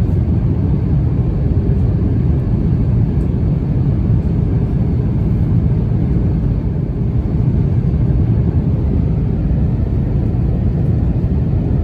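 Airbus A350-900 cabin noise in flight: a steady, deep rush of engine and airflow noise heard from an economy seat.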